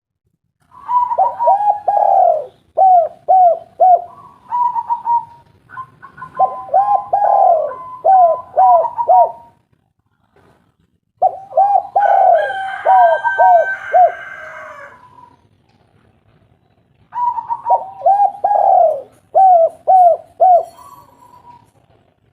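Spotted dove (tekukur) cooing loudly in repeated phrases of short arched coos, with gaps of a second or two between phrases, about a third of the way in and again past the middle.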